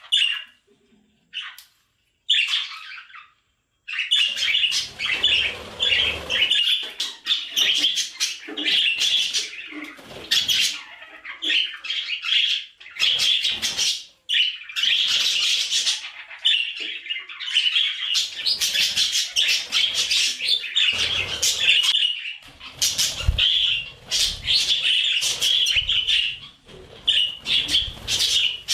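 Budgerigars chattering and warbling: a few short chirps, then from about four seconds in a dense, unbroken stream of chirps and warbles, with some low thumps mixed in.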